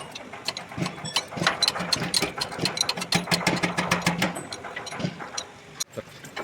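An engine running steadily, with many sharp metallic clicks and knocks over it throughout.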